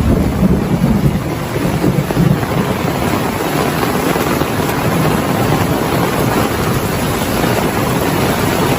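Heavy rain falling steadily, a dense even hiss with a deep rumbling low end.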